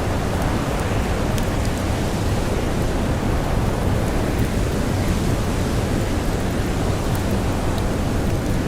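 Steady rushing blizzard wind with blowing snow, and faint scattered crackles of a campfire.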